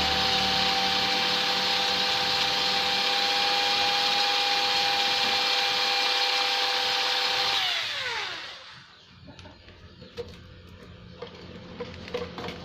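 Electric die grinder with a carbide burr bit, used to port a Vespa two-stroke cylinder, running at a steady high speed. About eight seconds in it is switched off and its pitch falls as it spins down, followed by a few light clicks.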